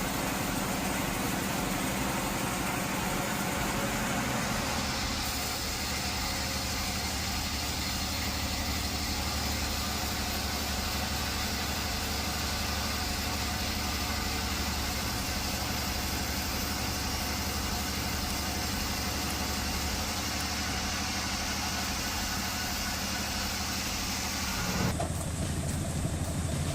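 An engine running steadily, with a higher hiss joining about five seconds in; the sound changes abruptly near the end.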